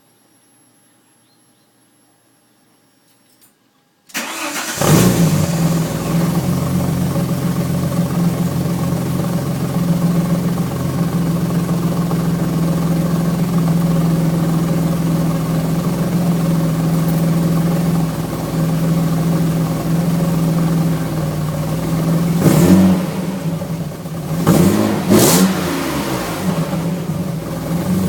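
Alfa Romeo V6 engine starting about four seconds in, its first cold start after winter storage, then idling steadily as it warms up. Near the end it is revved briefly twice, the pitch rising and falling each time.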